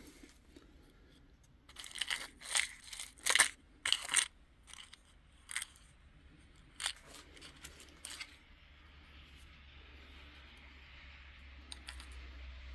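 Small trinkets and costume jewelry being handled and rummaged through: bursts of rustling and clicking, thickest in the first few seconds and then thinning to occasional clicks, over a faint low hum.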